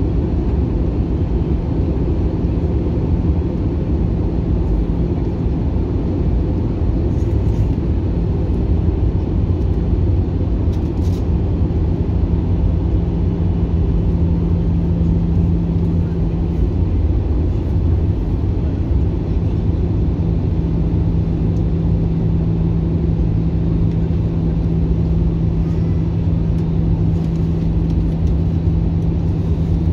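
Airbus A321-200 cabin noise: the jet engines and rushing air making a steady, loud rumble with a constant low hum, shifting slightly in pitch about halfway through.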